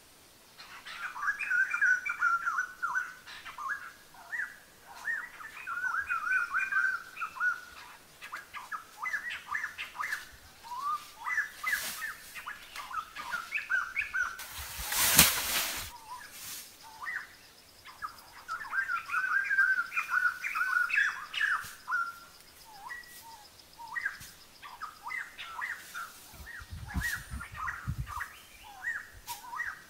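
Small birds chirping and trilling in repeated short bursts. About halfway through there is a brief loud burst of noise, and a few low thuds come near the end.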